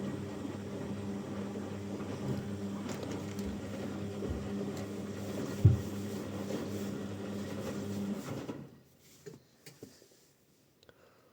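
Washing machine running with a steady motor hum and a single knock a little past the middle. The hum cuts off about three-quarters of the way through, leaving a few faint clicks.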